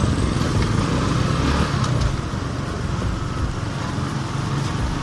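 Wind buffeting the helmet-mounted earphone microphone while riding, over the running of a Honda RS125 FI's 125 cc single-cylinder engine and road noise. The rumble eases slightly about two seconds in.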